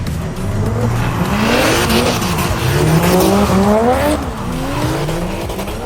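A drift car's engine revving up and down repeatedly as it slides, its pitch rising and falling several times. Tyre noise swells from about a second and a half in until around four seconds.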